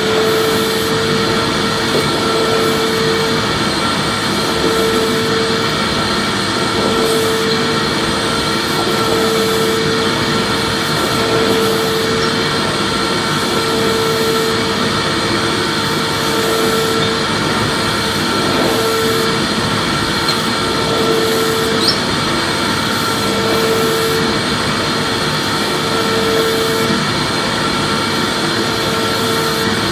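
Vacuum cleaner running steadily: a constant rush of air with a motor hum, and a mid-pitched tone in it that swells and drops out about every two seconds.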